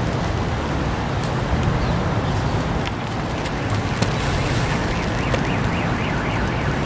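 Steady road and wind noise from a moving vehicle. A faint warbling tone comes in a little past halfway.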